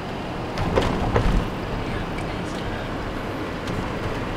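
Steady road and engine noise of a car being driven, with a short run of knocks and low thumps about a second in.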